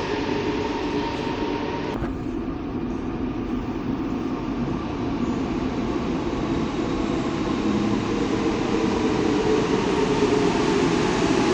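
NS-16 metro train running through the station, a steady rumbling rail noise. A tone in it drops out about two seconds in, and the sound slowly grows louder toward the end.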